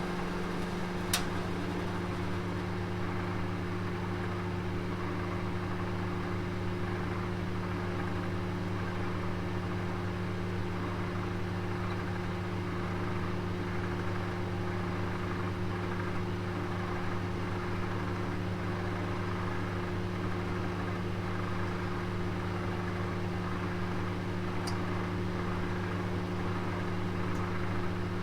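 Oven running with a steady hum, with a sharp click about a second in and a faint tick near the end.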